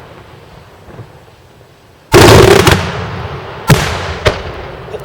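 Fireworks shells bursting. After a quiet lull, a dense cluster of rapid bangs comes about two seconds in and lasts about half a second. Two single sharp bangs follow, each trailing off in echo.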